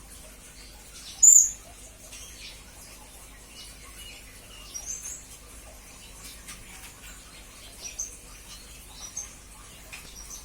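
Blue-crowned hanging parrot (serindit) calling: one loud, shrill, high-pitched call about a second in, then short, thin chirps every second or two.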